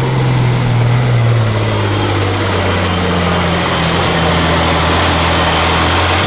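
Semi truck's diesel engine running hard under full load as it pulls the weight sled, loud and steady; its pitch sinks slowly through the run.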